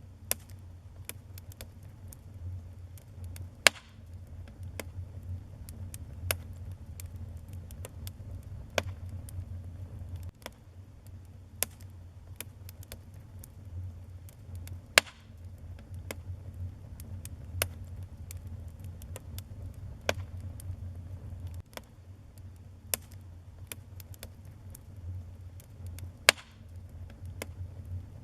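Wood fire burning in a fireplace, with a steady low rumble and frequent sharp crackles and pops; three louder pops stand out, about 4, 15 and 26 seconds in.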